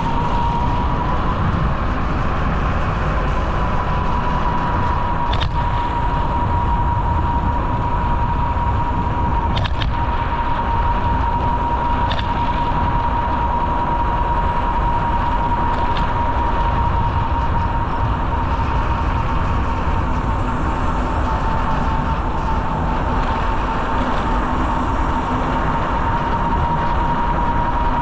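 Steady rumbling ride noise from a bicycle rolling along a trail, with wind on the microphone, under a constant high whine and a few faint clicks.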